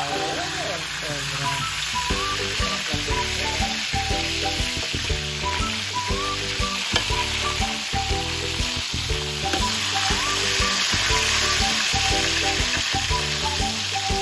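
Pork chops sizzling steadily in hot oil in a stainless steel pan while metal tongs turn them. Background music with a steady beat plays under the sizzling.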